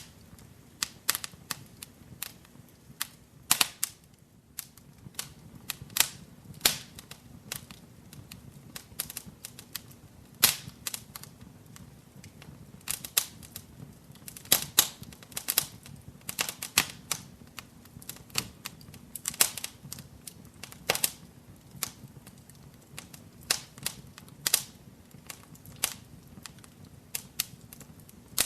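Wood fire burning in a fireplace, crackling with irregular sharp pops and snaps, several a second and some much louder than others.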